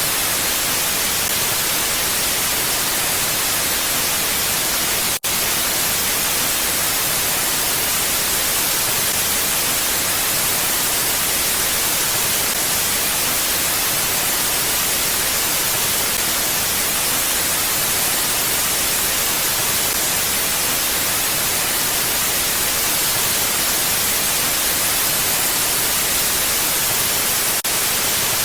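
Steady, unbroken wind noise with an even hiss, weighted toward the high end and without audible gusts. It cuts out for an instant about five seconds in.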